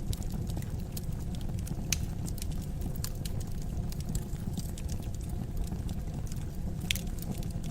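Wood fire burning in a fireplace: a steady low rumble of flames with scattered crackles and pops from the burning logs, two sharper pops standing out about two seconds in and near the end.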